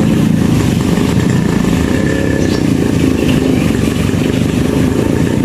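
A small engine running steadily at a constant speed, a loud, even rumble.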